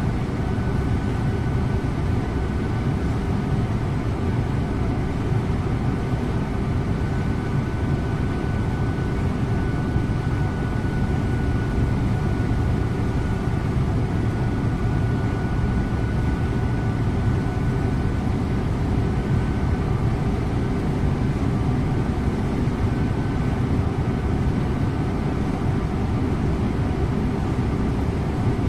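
Scania InterLink bus driving at a steady speed: a constant engine hum with tyre and road noise, with no gear changes or braking.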